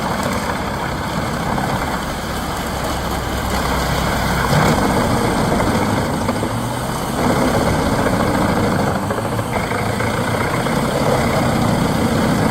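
Heavy forestry mulcher running, its diesel engine and cutting drum making a steady, loud, dense machine noise that starts abruptly.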